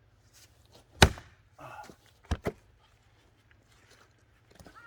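An axe blow strikes a log hard about a second in, then a short scuffle and two quick sharp knocks; the blow does not split the log. Crows begin cawing near the end.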